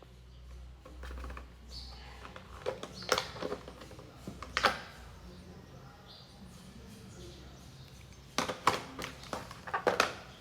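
Art supplies being handled: sharp clicks and taps of small hard objects set down and knocked together. There are a few scattered ones about a third of the way in, then a quick run of them near the end.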